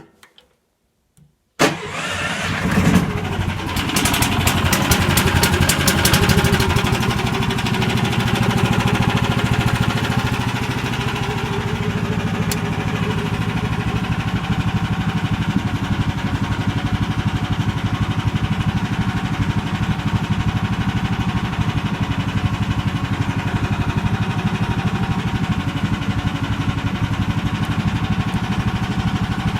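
17 hp Lifan engine of a homemade motorised snow tow starting about a second and a half in, running faster for the first few seconds, then settling into a steady run.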